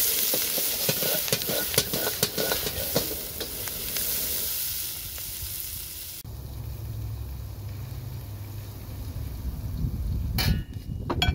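Chicken gizzards sizzling as they fry in a pan, with a utensil clicking and scraping against it as they are stirred. About six seconds in the sizzle cuts off abruptly, leaving a low rumble, and near the end come two loud knocks.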